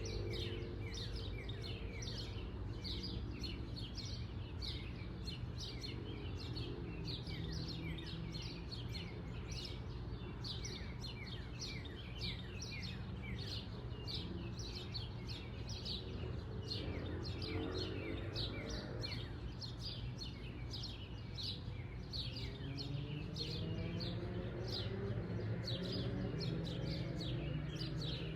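Backyard birds chirping steadily, a rapid run of short downward chirps repeating two or three times a second, over a steady low background hum.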